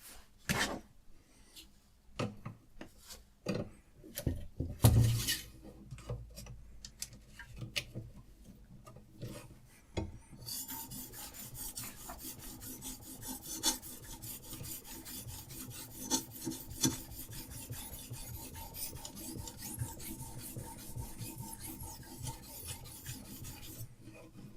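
Diamond sharpening stone on a Hapstone RS guided sharpener scraping along a knife blade in quick, even strokes, a steady rasping hiss that starts about ten seconds in. Before it, scattered clicks and knocks of the stone and sharpener being handled, with one louder knock about five seconds in.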